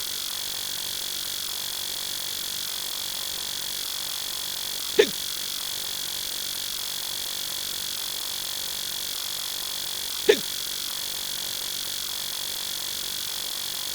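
Adult male hiccup sound effect, heard twice about five seconds apart, each a short sound that drops in pitch. Under it runs a steady hiss with a faint constant high whine.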